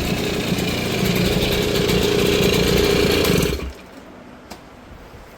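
Di Blasi R2's small 50cc two-stroke Franco Morini engine running steadily, then stopping abruptly about three and a half seconds in.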